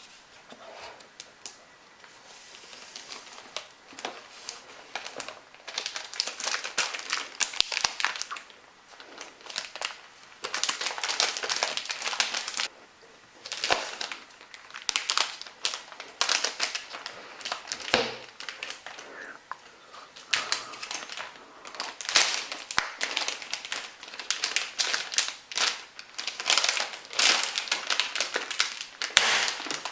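Packaging of a laptop being handled and unwrapped: plastic and paper crinkling and rustling in repeated bursts, with scattered clicks and a knock about midway.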